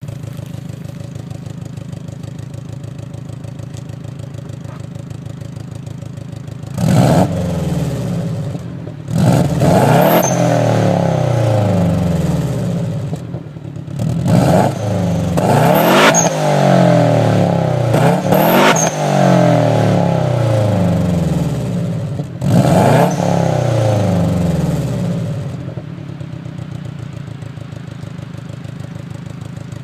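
Subaru Impreza GT's flat-four boxer engine idling, then revved sharply about six times, each rev rising fast and falling back, before it settles back to idle for the last few seconds.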